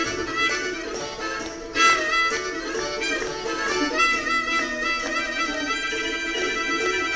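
Instrumental break in a live folk song, with no singing: a bowed-string lead carries the tune over a steady rhythm, and the playing picks up sharply about two seconds in.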